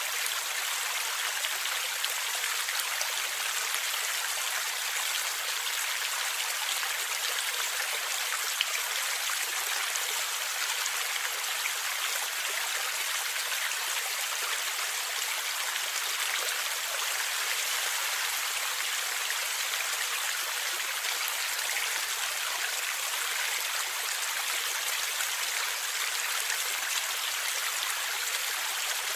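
Forest stream flowing and gurgling steadily: an even, bright rushing of water with almost no low rumble.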